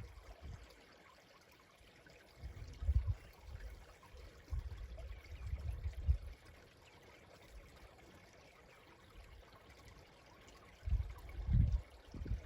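A stream running and trickling softly, broken by several low rumbles a few seconds apart.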